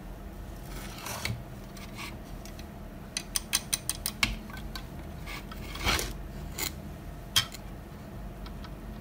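Small hand tools and parts being handled on a workbench: scraping and rubbing, then a quick run of about seven small metallic clicks, another scrape, and one last click.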